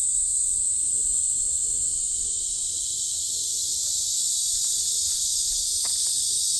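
A dense chorus of cicadas giving a steady, high, unbroken buzz, dipping slightly in level about halfway through.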